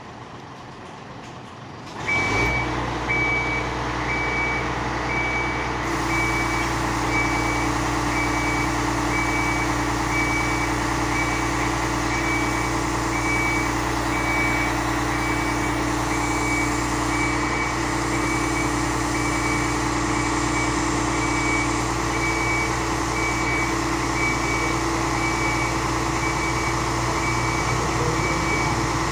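Fire truck's engine running loud and steady, with a high warning beeper beeping rapidly and evenly; both start suddenly about two seconds in.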